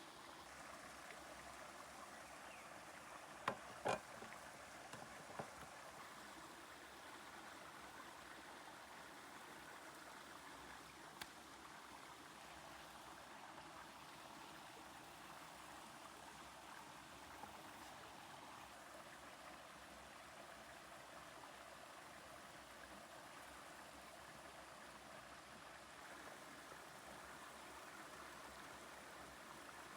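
Faint steady hiss of outdoor ambience, with two sharp knocks about three and a half to four seconds in and a fainter one shortly after.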